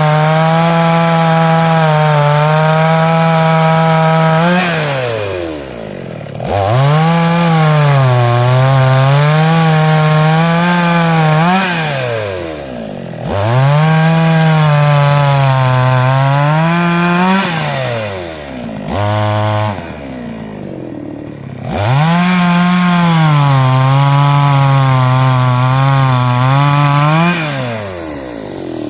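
Chainsaw running at full throttle and cutting wood, its pitch sagging and rising as the chain bites. There are four long cuts, and the engine falls back toward idle between them, with a short rev in between.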